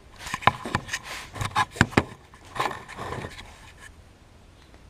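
Electrical tape being peeled off its roll and handled: short rasping peels mixed with sharp clicks and knocks over the first three seconds or so, then quieter rustling.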